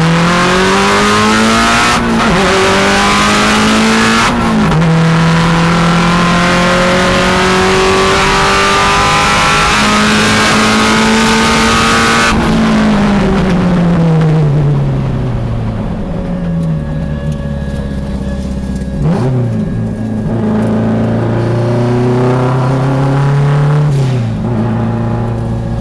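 Subaru STi World Challenge GT race car's turbocharged flat-four engine heard from inside the cockpit under hard acceleration: revs climb with two quick upshifts in the first few seconds and hold high, then fall away as the car slows. Later the revs dip and climb again, with another upshift near the end.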